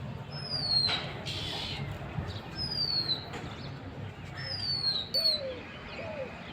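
Small songbird calling: a clear, high whistle that slides down in pitch, repeated about every two seconds. In the second half a lower, short arched note repeats several times alongside it.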